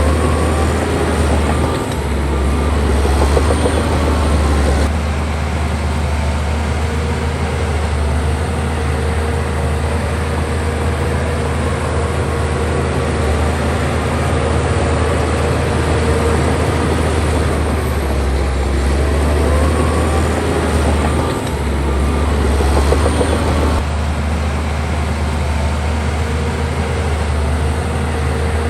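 Heavy diesel engine of earthmoving machinery running under load: a steady low drone that swells in loudness twice, with a steady higher whine through the middle stretch.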